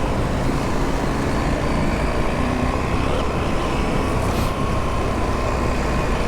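Adventure motorcycle riding uphill, its engine running steadily under a dense rush of riding noise.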